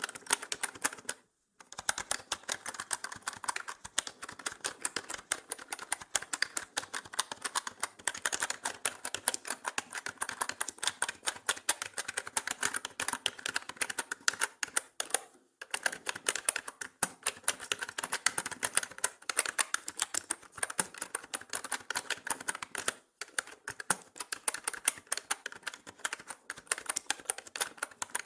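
Continuous fast typing on a mechanical keyboard, a dense stream of key clicks with brief pauses about a second and a half in, midway through, and about 23 seconds in.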